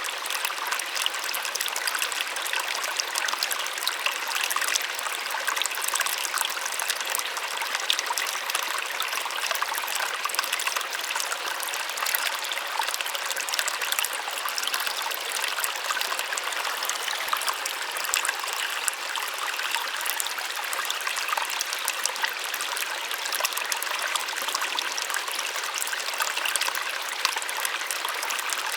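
Small waterfall with water splashing and trickling steadily, a soft even rush with fine splashes and little low rumble.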